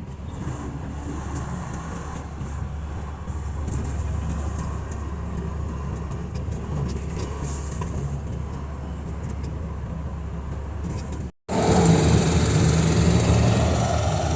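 Semi-truck engine and road noise, a steady low rumble. About eleven seconds in, the sound cuts out for a moment and comes back louder, with a steady hum.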